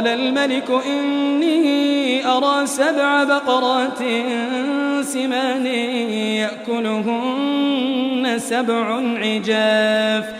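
A male Quran reciter's voice in melodic tajweed recitation, drawing out long, ornamented notes that waver and glide in pitch, with only brief breaks.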